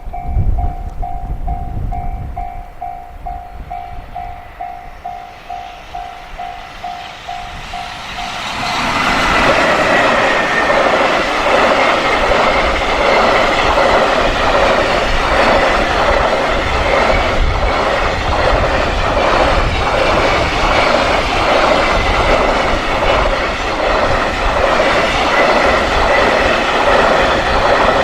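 A Japanese level-crossing warning bell rings in a steady, quickly repeated ding. About eight seconds in, a long train arrives and passes over the crossing, much louder, its wheels clattering in an even rhythm over the rail joints and drowning the bell.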